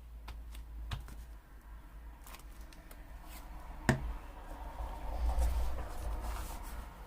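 Paper being handled at a craft table: rustling and small clicks, a sharp snap about four seconds in, then a longer stretch of rustling, over a low steady hum.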